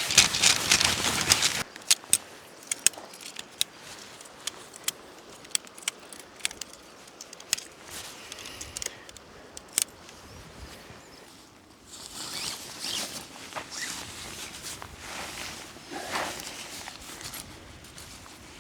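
Camping gear being handled during a tarp setup: a burst of rustling, then a run of scattered sharp clicks and clinks, then more rustling near the end.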